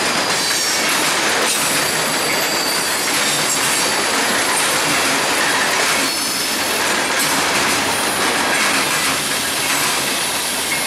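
Freight train cars rolling past at speed: a steady loud rumble and rush of steel wheels on rail, with faint high-pitched wheel squeals at times, as the tail end of the train goes by.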